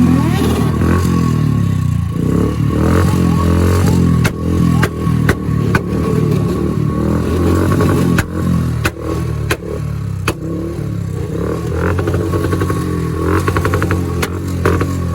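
Motorcycle engine running while riding, its pitch shifting up and down with the throttle, with scattered sharp clicks and knocks over it.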